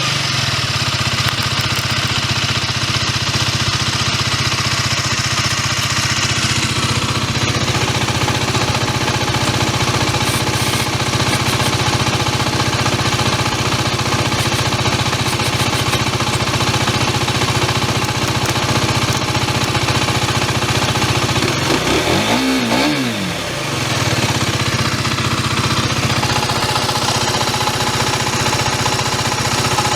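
Aprilia RS4 125's single-cylinder four-stroke engine running through its stock exhaust at steady revs, with a brief dip in the engine note about two-thirds of the way through before it picks up again.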